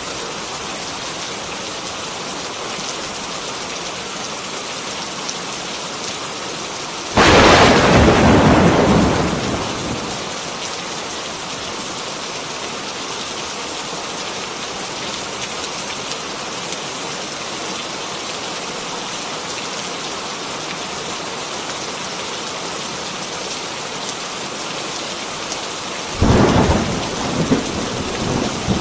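Heavy rain falling steadily, with a sudden loud thunderclap about a quarter of the way in that rumbles and fades over a few seconds, and a second crack of thunder with rumbling near the end.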